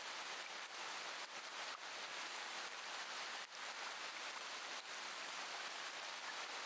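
Steady rain falling, an even hiss with the faint ticks of scattered drops.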